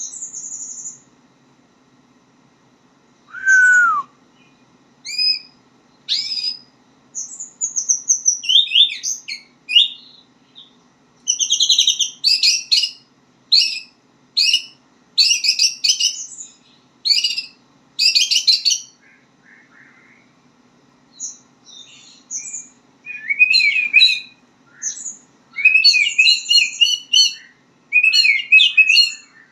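White-rumped shama singing: varied phrases of clear whistles, sliding notes and fast chattering runs, separated by short pauses. By the title it is a bird still learning its song. A faint steady low hum lies underneath.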